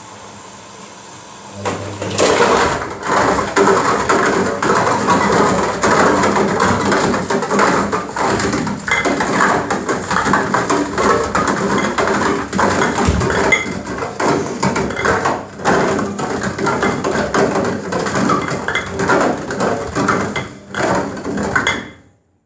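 Pringles cans banging and clattering inside a turning washing-machine drum, a dense run of knocks that starts about two seconds in and cuts off abruptly near the end.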